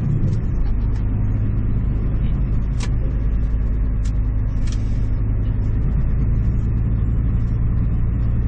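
Scania NextGen truck's diesel engine running steadily under way, a low drone heard from inside the cab, with a shift in the engine note right at the start. A few faint clicks sound over it.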